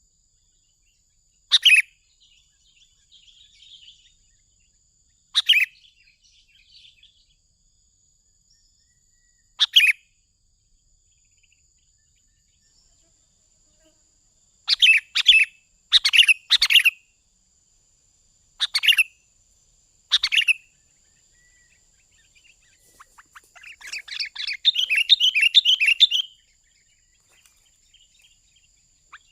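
Sooty-headed bulbul (kutilang) calling: single sharp calls a few seconds apart, then a quick cluster of calls, and near the end a rapid chattering run of notes lasting about two seconds.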